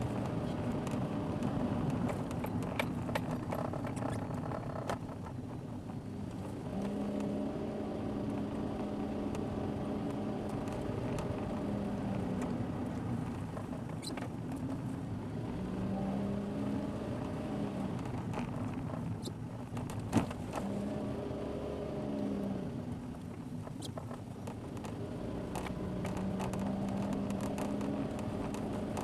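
A car's engine and road noise, heard from inside the cabin through a dashboard camera. The engine note rises and falls several times as the speed changes, with scattered small clicks and one sharper knock about twenty seconds in.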